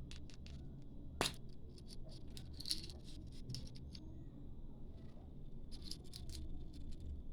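Light scratching and clicking, as of small lovebirds scrabbling about in a cage or nest box, with one sharper knock about a second in, over a steady low hum.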